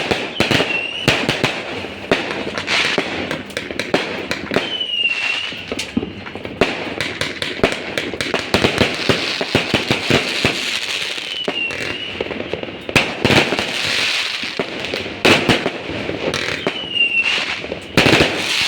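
Fireworks going off in quick succession: a dense, irregular run of cracks and bangs, with a short high whistle about four times.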